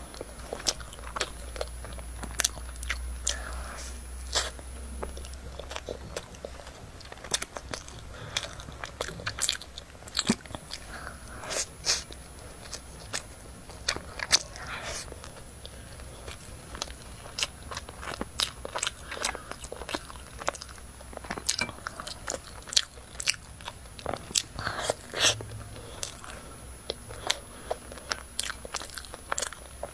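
Close-miked eating sounds: bites into soft floss-coated cakes and chewing, with many short sharp mouth clicks and smacks at an irregular pace.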